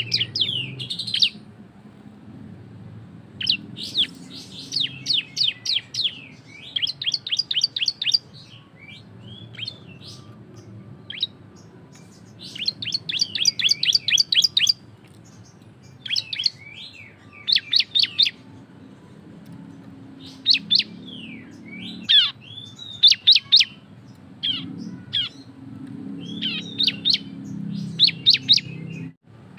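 Ciblek (prinia) songbird singing its loud 'ngebren' song: repeated bursts of rapid, sharp, high chirping notes, each burst a second or two long, with short pauses between.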